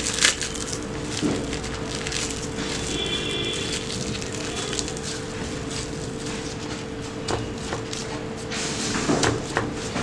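Plastic cling wrap crinkling and rustling in the hands as it is folded tightly around a block of cookie dough, with irregular crackles over a steady hum.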